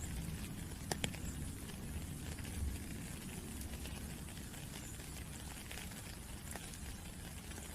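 Steady rain with drops pattering, and a couple of sharper drip clicks about a second in.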